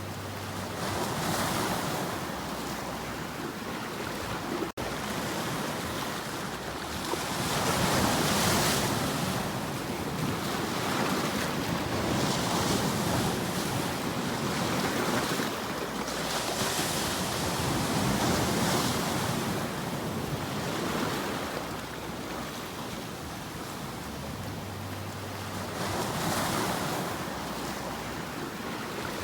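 Ocean waves breaking and washing on a shore, the surf swelling and easing every few seconds, with some wind. There is a very brief gap in the sound about five seconds in.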